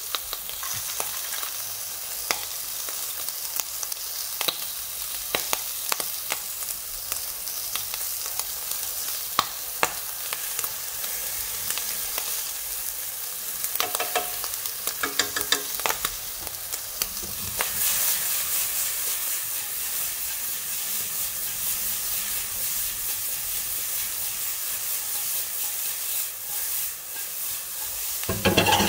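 Squid pieces sizzling as they fry in a nonstick wok, with scattered clicks of a utensil against the pan. The sizzle grows louder about two-thirds of the way through, after chilli garlic sauce goes in, and near the end there are a few loud knocks as the pan is tossed on the gas burner.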